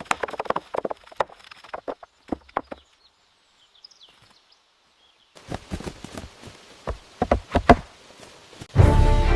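Irregular knocking and chopping strikes on wood, like timber being worked by hand, in two spells with a few seconds of near silence between them. Music comes in near the end.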